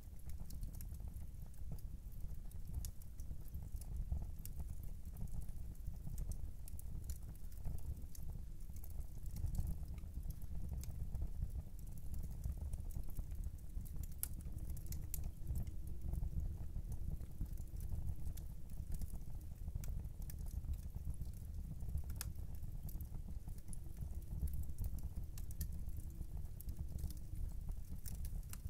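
Wood fire burning in a fireplace: a steady low rumble of flames with irregular sharp crackles and pops, and a clock ticking faintly in the background.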